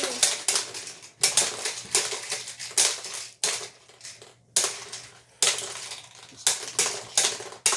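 Rapid plastic clattering from a children's tabletop dinosaur ball-shooting game: levers being hammered and plastic balls rattling, in quick clusters of clicks with brief pauses.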